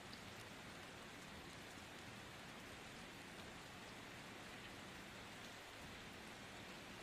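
Faint, steady rain falling, with a few light drop ticks over an even hiss.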